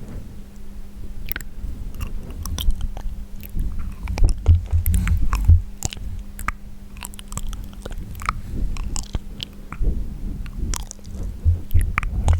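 Close-miked wet mouth sounds: irregular clicks, smacks and tongue pops, with a few heavier low thumps, over a faint steady hum.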